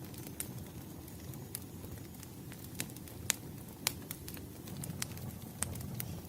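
Wood fire burning: a steady low rumble with scattered sharp crackles and pops, the loudest a little over three seconds in and near four seconds.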